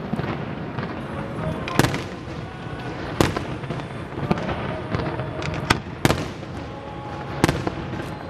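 Fireworks display: about six sharp shell bursts one to two seconds apart, with a steady crackle between them.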